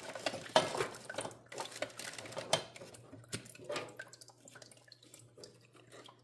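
Irregular clicks, knocks and rustles as a space heater and its power cord are handled and plugged into an outlet, over a faint steady low hum.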